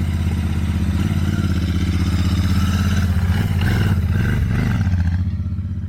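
Motorcycle engine idling steadily close by, a low, even rhythmic running that eases slightly near the end.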